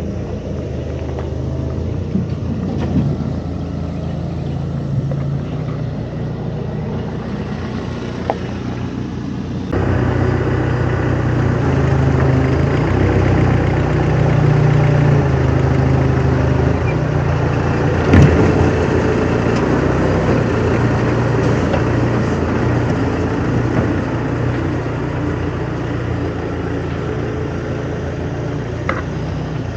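A vehicle engine running steadily, its pitch shifting up and down, getting louder about ten seconds in, with a single sharp clank about eighteen seconds in.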